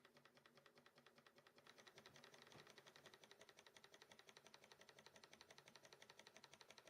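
Faint, rapid, even ticking of a UMS SE03 horizontal model Stirling engine running steadily, its small mechanism clicking on every turn; the ticking grows a little louder about two seconds in.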